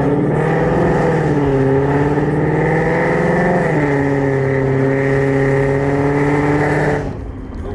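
Car engine held at steady high revs, the pitch wavering and settling a little lower about three and a half seconds in, then cutting off abruptly near the end.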